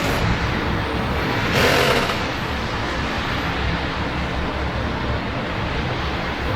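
City traffic in the rain: a steady wash of vehicle noise with a low rumble underneath, and a brief louder hiss about a second and a half in.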